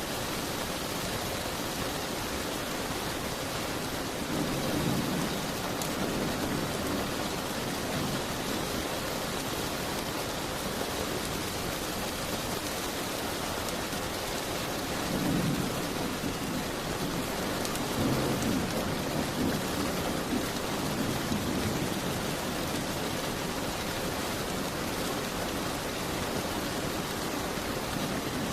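Steady rain with distant thunder rumbling low three times: about four seconds in, near the middle, and again a few seconds later.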